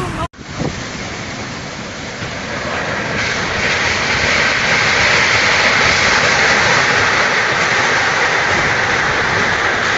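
Typhoon wind and heavy rain: a loud, steady rushing noise that grows louder and brighter about three seconds in.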